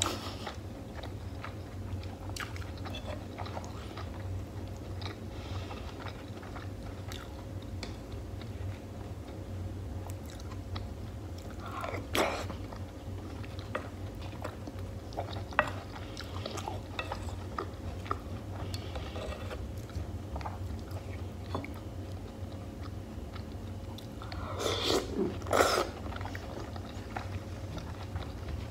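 Close-miked chewing and wet mouth sounds of eating beef and tomato stew with rice, with scattered small clicks. There is a louder sound about twelve seconds in, and a louder crunchy burst near the end, over a steady low hum.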